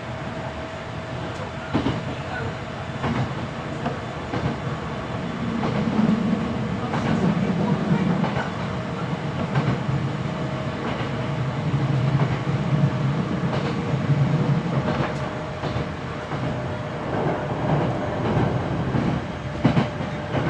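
Hankyu 7300 series electric train running between stations, heard from inside the car: a steady rumble of running noise that swells and eases, with wheels clicking sharply over rail joints several times.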